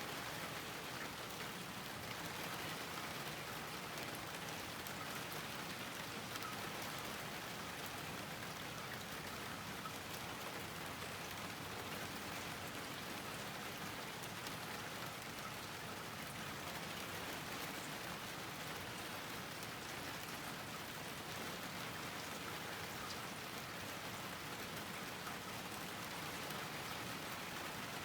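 Steady rain falling on a garden, an even patter of drops without a break.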